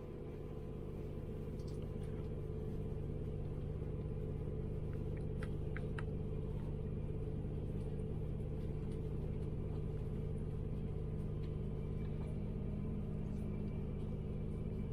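Steady low rumble and hum of a moving passenger train, heard from inside the carriage, fading in over the first couple of seconds.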